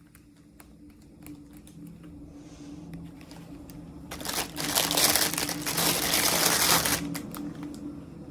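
Plastic toy packaging crinkling loudly for about three seconds in the middle, after light clicks of handling. A faint steady low hum runs underneath.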